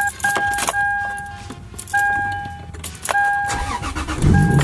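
Lexus IS300's dashboard warning chime beeping in long repeated tones while keys jangle, then the starter cranks and the 3.0-litre straight-six fires near the end and settles into a steady idle. It starts on the first try after sitting unused for about a month.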